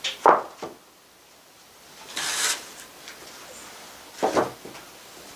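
Sawn pine boards being handled: a few sharp wooden knocks at the start, a scraping slide about two seconds in, and two more knocks just past four seconds.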